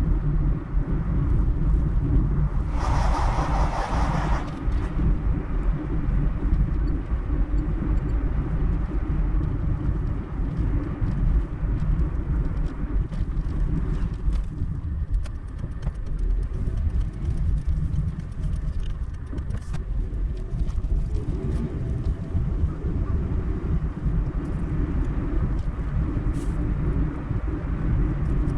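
Car driving along a road: a steady low rumble of engine and tyres. A brief hiss rises over it about three seconds in.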